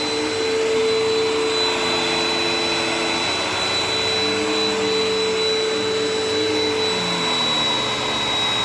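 Bissell vacuum cleaner running steadily while vacuuming carpet: a constant motor whine, with lower tones that waver as it is pushed about.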